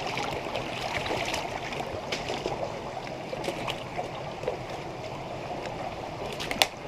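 Spring-fed creek water running and splashing over rocks, a steady burble, with one sharp click near the end.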